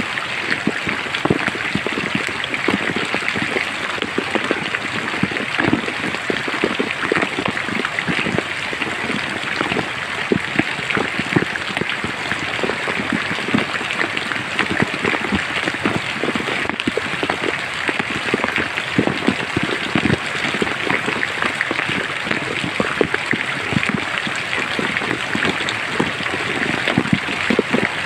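Steady rain falling in a forest, with a dense hiss and many individual drops striking close by.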